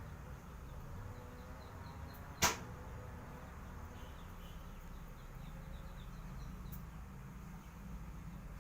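A single sharp click or knock about two and a half seconds in, over a low steady rumble, with faint high chirps repeating in the background.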